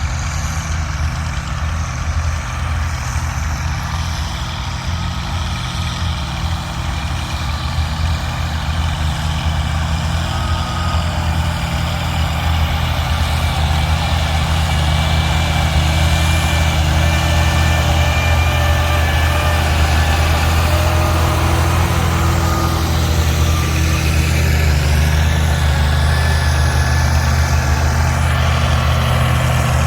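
Tractor engine running steadily under load, growing louder about halfway through.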